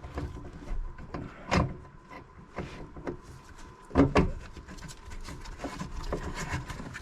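A hand tool knocking and scraping against old rusty nuts under a sink as they are worked loose. There are a few sharp knocks, the loudest about four seconds in, with lighter clicks and rubbing between them.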